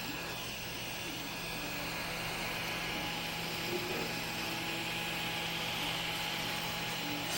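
Small cordless desktop vacuum cleaner running steadily: an even motor whir and airflow hiss with a low hum underneath.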